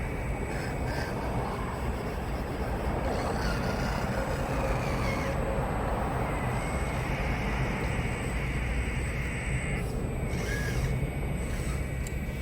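Radio-controlled scale excavator running: a motor whine that shifts up and down in pitch as it works, over a steady low rumble and noise.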